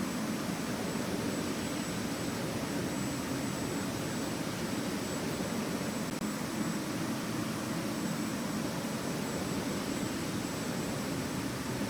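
Steady jet airliner noise, engines and rushing air: an even low rumble with a thin high whine above it, unchanging throughout.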